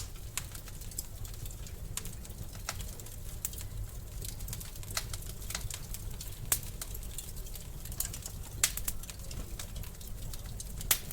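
Wood fire crackling in a fireplace: irregular sharp pops and snaps over a low steady rumble, with a few louder pops about halfway through and near the end.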